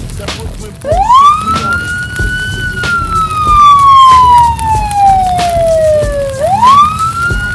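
Emergency vehicle siren in a slow wail: it rises quickly about a second in, falls slowly over about five seconds, then rises again near the end.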